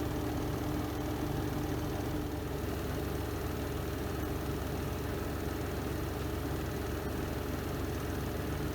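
Spin drum of a Renova semi-automatic twin-tub washing machine spinning steadily: an even motor hum over a low rumble. A faint whine fades out about two and a half seconds in.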